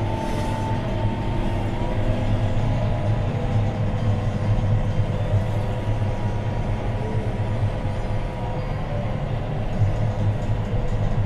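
John Deere 6215R tractor's six-cylinder diesel engine running steadily under ploughing load, heard from inside the cab, with a deep drone and a thin steady whine above it.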